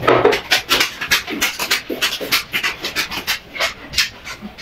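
Noisy close-up chewing of a mouthful of noodles: quick wet mouth smacks, several a second, with breathing through them.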